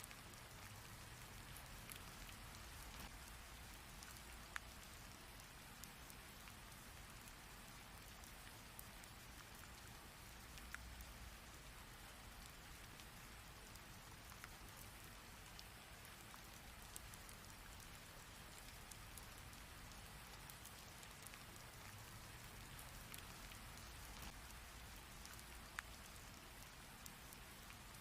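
Heavy rain falling steadily: a faint, even hiss with a few sharp drop ticks scattered through it.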